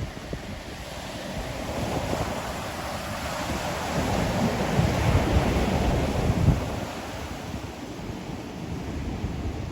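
Ocean surf: a wave swells and breaks about four to six seconds in, and its wash eases off afterwards.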